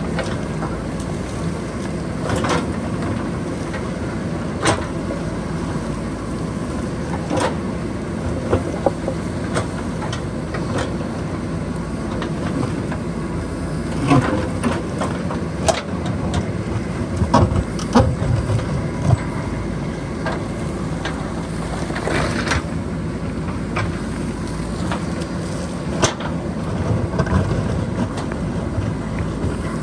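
JCB backhoe loader's diesel engine running steadily while it works, with sharp knocks and scrapes at irregular intervals as the bucket strikes rock and boulders in the hillside.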